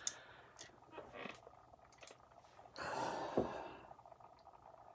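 Faint clicks and handling noises of a die-cast model car being swapped, with a louder breathy rustle about three seconds in.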